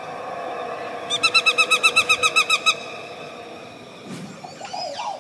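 A bird calling: a rapid, evenly spaced run of about fourteen short pitched notes lasting about a second and a half, starting about a second in, over a faint steady background.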